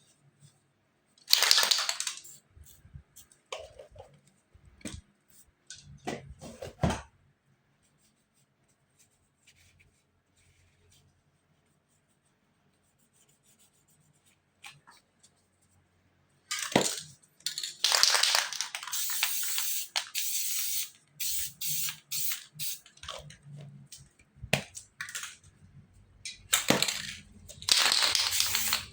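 Aerosol spray-paint can hissing in bursts of spraying, the longest lasting several seconds, with short clicks and knocks between them and a quiet stretch in the middle.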